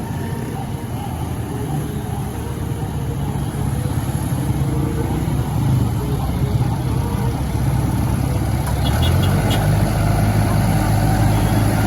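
Motor vehicle engines running, with a low engine note coming in louder about nine seconds in.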